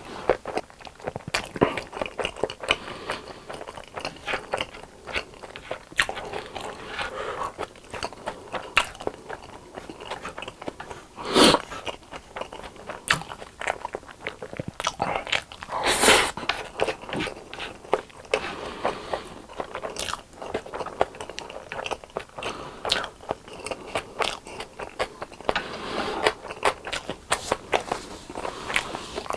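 Close-miked eating of crunchy boneless chicken: steady biting, crunching and chewing, with two louder crunchy bites near the middle.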